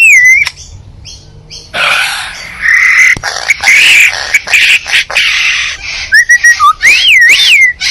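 A mimicking bird that talks 'in many voices' calling: a clear, wavering whistle, then a stretch of harsh, raspy calls, then more rising-and-falling whistles near the end.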